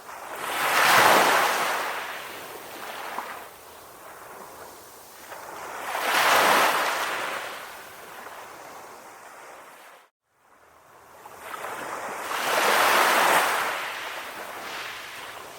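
Calm ocean waves washing in and drawing back, three slow swells about six seconds apart, with a momentary cut to silence about ten seconds in.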